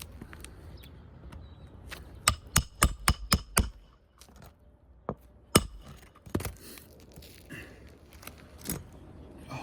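Hammer striking roofing nails into an asphalt architectural shingle: a quick run of about six blows, then a few single blows.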